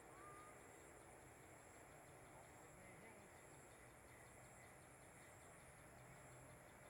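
Near silence with a faint, steady high-pitched insect chorus trilling throughout. There is one short rising whistle-like note just after the start.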